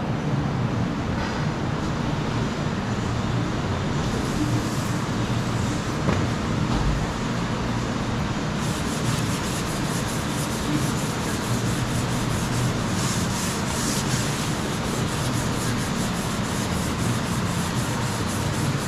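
Sanding Bondo body filler on a car's quarter panel: a steady abrasive rasp, with a brighter, rhythmic scratching of repeated strokes from about halfway through.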